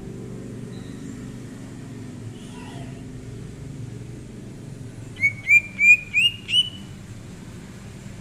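Cucak ijo (leafbird) singing: a quick run of five loud, upward-slurred whistles about five seconds in, each a little higher than the last, after a few faint calls. A steady low rumble runs underneath.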